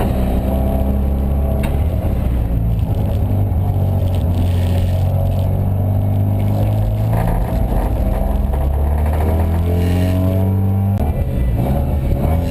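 Car engine running with a strong low drone, its pitch shifting between about seven and eleven seconds as the revs change. It is recorded as an abnormal noise from the car.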